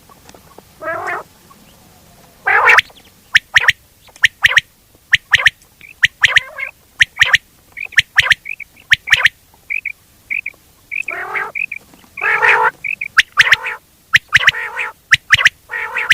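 Quail calling: an irregular run of sharp clicking notes and short harsh calls, with brief clear whistled pips in between.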